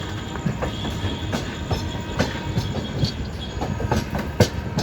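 Passenger train running on the rails: a steady rumble with irregular clacks and knocks of the wheels over the track, one sharper knock near the end.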